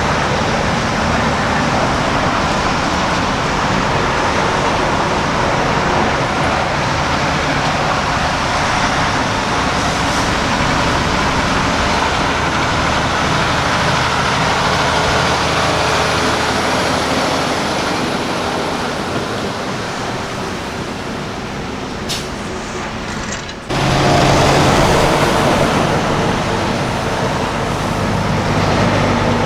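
Heavy diesel semi-trucks running and passing, a steady low engine drone under road noise. The sound drops off and then changes abruptly about three-quarters of the way through, and a new louder truck engine drone takes over.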